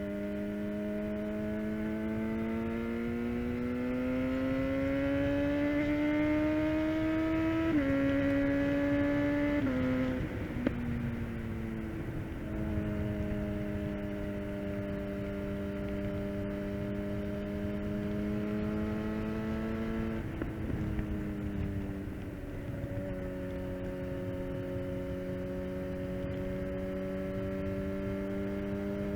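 Suzuki GSX-R750 inline-four with a full Yoshimura exhaust, ridden and heard from the tank. The engine pulls up through the revs for about eight seconds, stepping down briefly at gear changes, then falls away as the throttle closes near ten seconds, with a single sharp pop from the exhaust. It then holds a steady cruise, with another dip and settle a little past twenty seconds, over a rush of wind.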